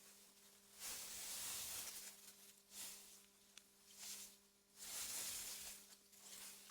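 Faint wind through meadow grass, AI-generated: soft gusts of hiss that swell and fade every second or two, over a steady low hum.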